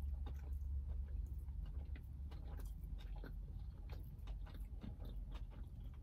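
Close-up chewing of a crunchy shrimp tempura sushi roll: irregular soft crunches and wet mouth clicks over a steady low hum.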